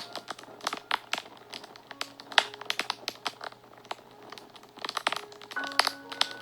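Wood fire crackling, with frequent irregular sharp pops and snaps. A few soft, sustained background music notes sound twice, about two seconds in and again near the end.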